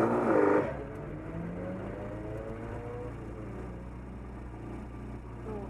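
Austin-Healey Sprite's four-cylinder engine idling steadily, heard from inside the cabin, after a louder burst of sound in the first second.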